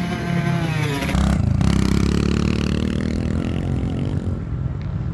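Off-road motocross engine revving on the track: the note falls away in the first second, then a deeper engine sound swells and fades as a machine goes by.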